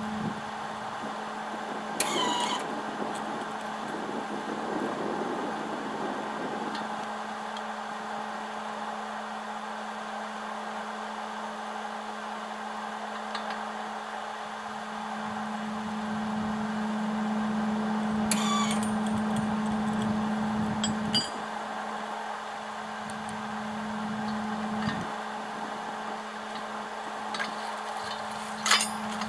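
Electric arc welder humming steadily, louder for several seconds past the middle and then dropping off suddenly, with a few brief sharp crackles.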